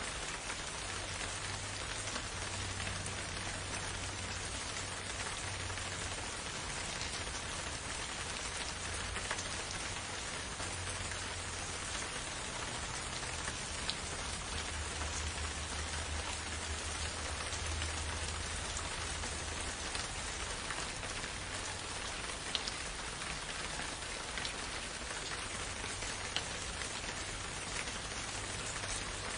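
Steady rain falling, an even hiss with single drops ticking sharply now and then, and a low rumble that swells and fades at times underneath.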